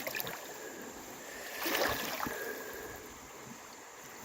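Creek water sloshing and splashing around a person wading in deep, moving water, loudest about two seconds in.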